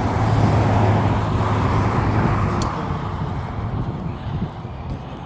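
A road vehicle passing close by, its engine and tyre noise loudest about a second in and then fading away.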